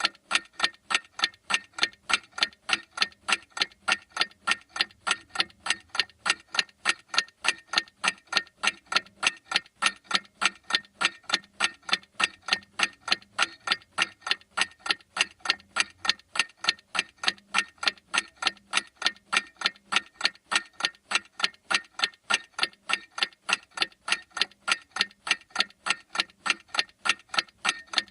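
Clock ticking steadily: sharp, evenly spaced ticks, a few a second, without a break.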